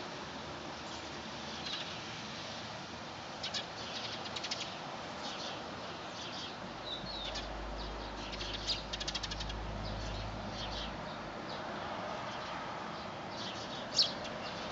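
Birds chirping in short high calls: a few near the start, a fast run of chirps in the middle and one loud chirp near the end, over a steady hiss of wind and rain with a low wind rumble in the middle.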